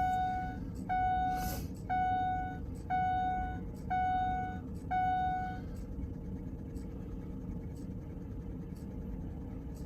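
Dashboard warning chime of a Ford diesel pickup, six beeps about once a second, over a low steady hum in the cab. The chime sounds because the key has been turned to on to cycle the glow plugs before a cold start; the engine is not yet running.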